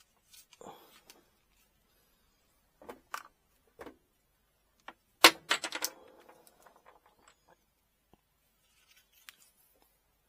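Hard objects being handled and set down on a work surface: a scatter of clacks and knocks, with a sharp loud clack and a quick run of knocks about five seconds in, then a few faint ticks.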